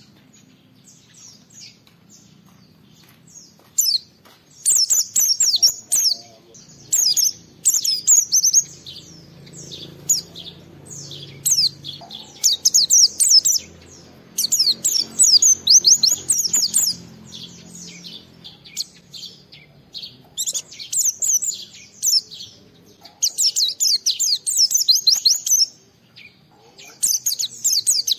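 White-eye (pleci) singing: rapid, high twittering phrases of a second or two each, repeated with short pauses, in the continuous song style used as a lure to set other white-eyes singing.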